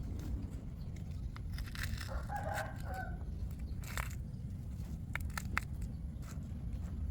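One drawn-out pitched animal call, lasting about a second and a half and starting about a second and a half in, over a steady low rumble, followed by a few sharp clicks or snaps.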